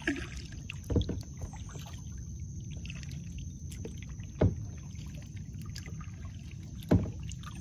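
Kayak being paddled, with a steady low wash of water against the hull. Three sharp knocks come about a second in, midway and near the end.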